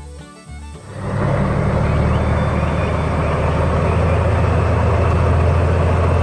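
Heavy truck engine running steadily, starting up loudly about a second in after a brief lull.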